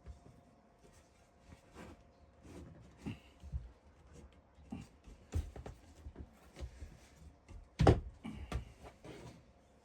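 Scattered light knocks and clicks of wooden parts being handled, the loudest a sharp knock nearly eight seconds in.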